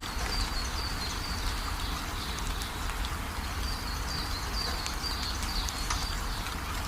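Steady rain falling with scattered drop ticks and a low rumble underneath. Short high calls, likely from a bird, repeat every second or so over the rain.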